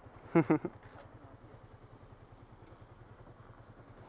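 A vehicle engine idling with a steady, evenly pulsing low throb. Two short, loud calls with bending pitch cut in about half a second in.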